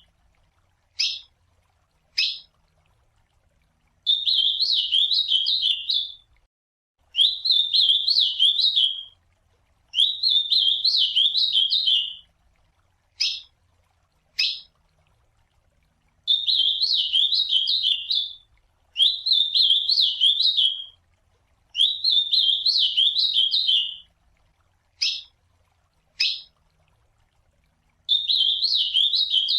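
Ultramarine grosbeak (azulão) singing: a series of clear, warbled song phrases about two seconds each, in groups of two or three, broken by pairs of short single call notes.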